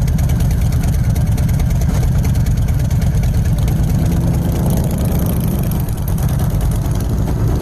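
Hot rod truck's big-block Ford V8 running loud and steady, a deep rumble with a fast, even pulse of firing strokes.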